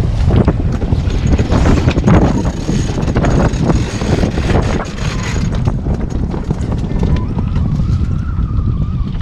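Wind buffeting the microphone aboard a small sailboat, with irregular knocks and flapping as the sails swing over to the other side while the boat turns.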